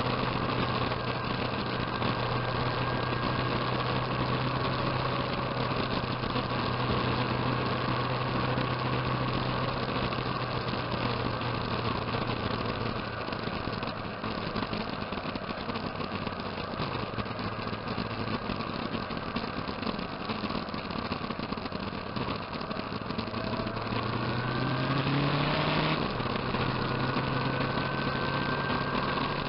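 Motorcycle engine running steadily. Its speed sags through the middle and climbs again about twenty-five seconds in before settling.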